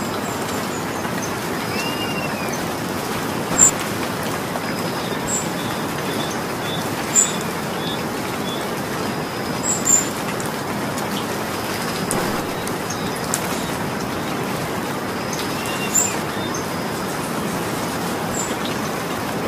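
Steady rain falling, with a few louder single drops striking sharply close by and a brief bird chirp early on.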